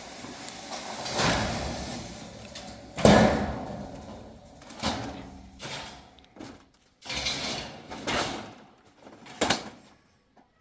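A series of knocks and bangs, about seven, with the loudest sharp bang about three seconds in.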